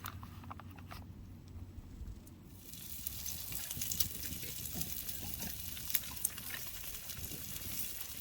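Meat sizzling on a hot pan, with scattered sharp pops. The sizzling starts abruptly about two and a half seconds in, after a few quieter ticks.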